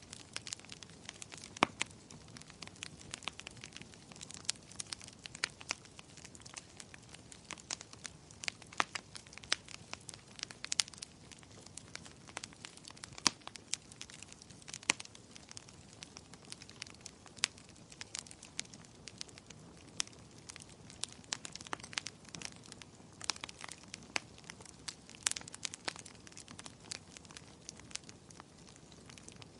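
Wood fire crackling in a fireplace: a soft steady hiss of flames with frequent sharp pops and snaps at irregular intervals.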